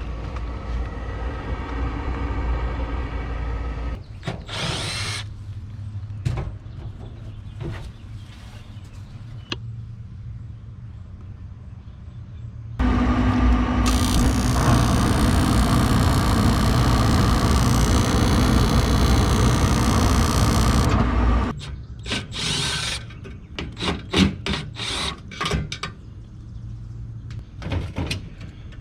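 Hand-tool and equipment work sounds: a low running rumble at first, then scattered knocks. About halfway through comes a loud, steady whirring machine noise lasting some eight seconds, followed by a quick run of clicks and knocks as parts and tools are handled.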